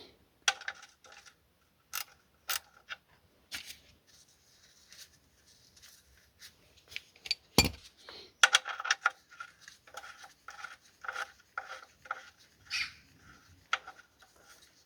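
Scattered metallic clicks and small ringing clinks as the engine oil drain plug is worked loose by hand from the oil pan. They come sparsely at first and grow busier in the second half.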